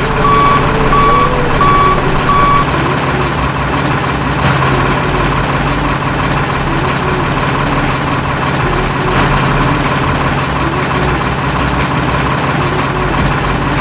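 Truck sounds: a reversing alarm beeps four times, then a steady engine rumble continues.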